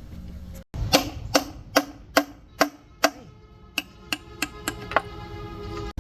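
A hammer striking metal in a steady run of about eleven blows, roughly two to three a second, with the metal ringing between the later, softer blows.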